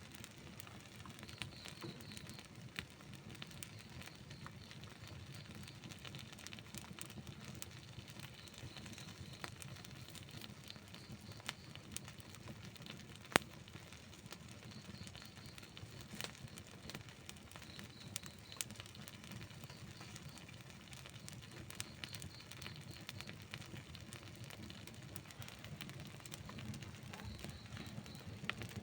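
Wood campfire burning, a steady low rumble of the flames with irregular crackles and pops; one sharp pop stands out about halfway through.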